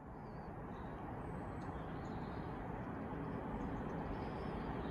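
An approaching train, heard as a steady rumble that slowly grows louder, with a few faint bird chirps.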